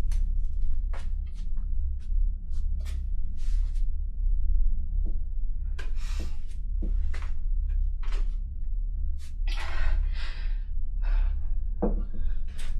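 A low steady drone, like horror-film background music, with scattered sharp clicks and knocks and a few brief rustling noises, the longest about ten seconds in.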